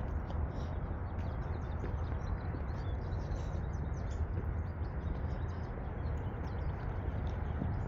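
Small birds chirping and twittering, many short calls throughout, over a steady low rumble.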